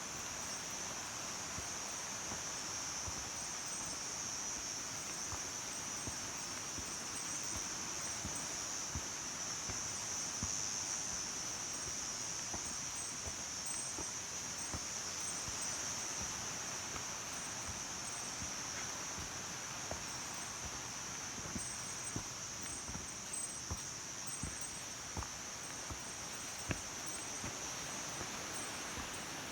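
Mountain stream running over rocks, a steady rushing, with insects buzzing in a high steady band over it. A few light clicks near the end.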